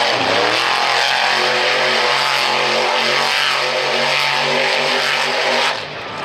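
Monster truck engine revving: its pitch falls at the start, then it runs loud at varying throttle before dropping off sharply near the end.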